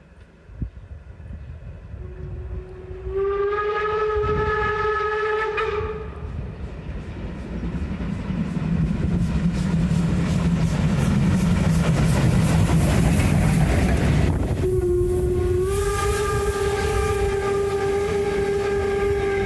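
Steam locomotive whistle sounding twice: one steady tone with a slight rise in pitch at its start, about three seconds in, and again from about fifteen seconds on. Between the blasts the train is running, with a low rumble and rapid rhythmic beats.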